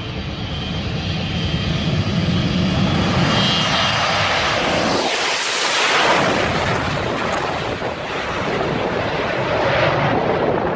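Airplane engine noise, a loud even roar that builds and swells to a peak with a rising hiss about five to six seconds in, then stays loud.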